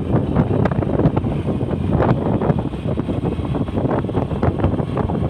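Wind buffeting the microphone, with a motor scooter's engine running underneath.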